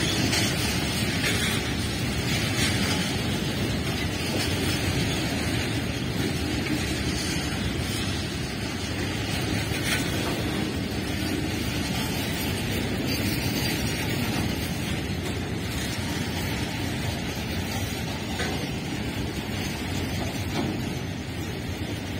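Freight train of covered goods wagons rolling past close by: a steady noise of steel wheels running on the rails, with a few sharper clicks.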